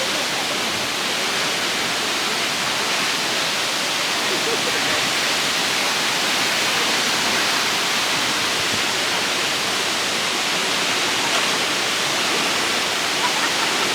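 Multnomah Falls, a tall waterfall, heard close by as a loud, steady rush of falling water that cuts in abruptly.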